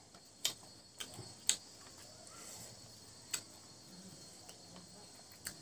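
Close-up eating sounds: wet lip smacks and mouth clicks while chewing rice and mutton curry, about six sharp separate smacks at uneven intervals over a faint hiss.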